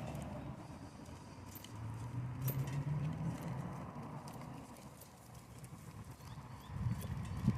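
Bicycle riding noise: wind buffeting the microphone and tyres rolling on the path, with a few sharp knocks near the end.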